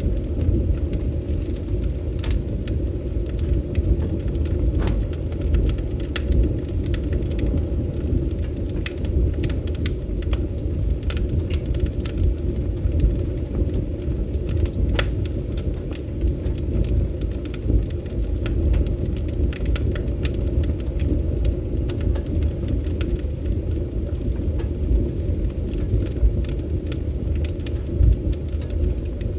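Wood fire crackling, with frequent sharp pops and snaps over a low, steady rumble of burning.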